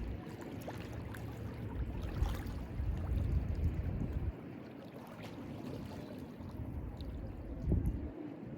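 Mediterranean sea waves washing and lapping at the shore, with a low rumble under them for the first half that drops away about four seconds in.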